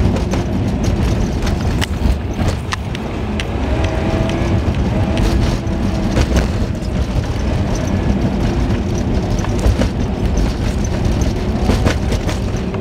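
Car driving, heard through a dash camera: a steady low rumble of engine and road noise, with scattered sharp clicks and knocks and a few brief faint tones.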